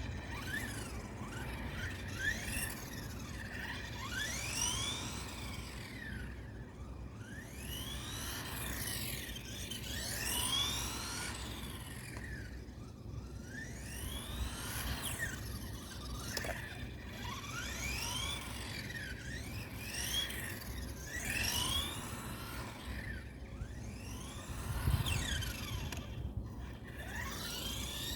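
Electric motor and drivetrain of a 1/14-scale Carisma GT14 RC car, whining in repeated rising and falling sweeps as the car speeds up and slows down again and again. Near the end there is a brief thump.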